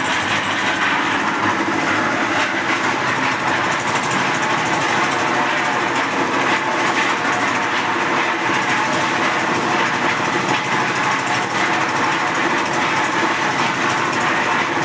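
One-bag concrete mixer running steadily, its machinery giving a loud, even mechanical noise with a faint rattle.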